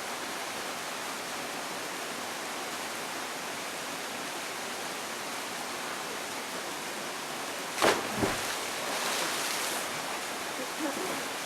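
Steady rush of flowing water, with one sharp thump about eight seconds in followed by a brief swell of louder splashing hiss.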